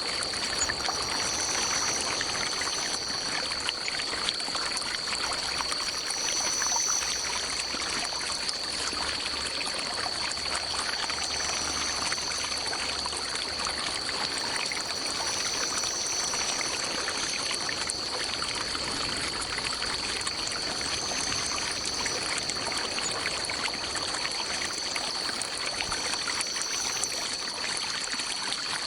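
Running water, a steady even rush like a forest stream. Over it sits a steady high-pitched tone, with a higher pulsing call repeating every two to three seconds.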